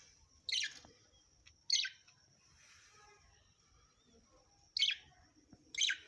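Pet parrot giving four short, sharp chirps, each dropping in pitch: two close together near the start and two near the end.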